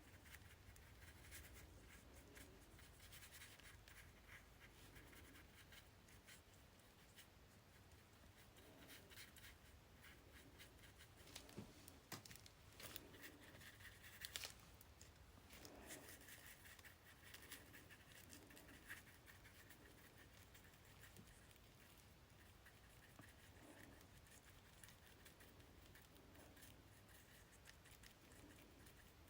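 Faint brushing and scratching of a paintbrush laying watercolor over a sealed paper page, with a few soft taps; otherwise near silence.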